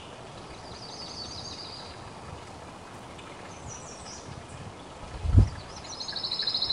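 Songbirds trilling over outdoor background, with a longer, rapid trill starting near the end. A brief low thump, the loudest moment, comes about five seconds in.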